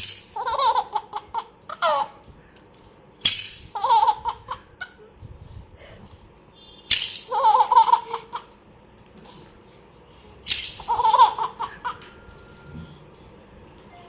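A baby laughing in bursts as a toy rattle is shaken. The shake and laugh come four times, about every three and a half seconds.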